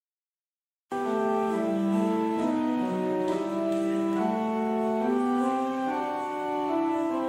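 Instrumental church music on a keyboard instrument: slow chords of long held notes, moving every second or so. It cuts in suddenly about a second in, after total silence.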